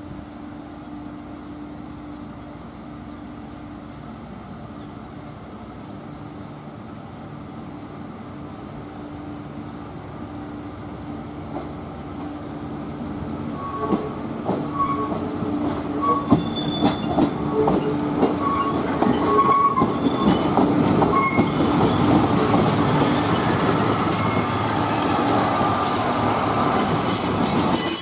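A train drawing nearer, its wheels clacking over rail joints and growing louder. High-pitched wheel squeal sets in near the end.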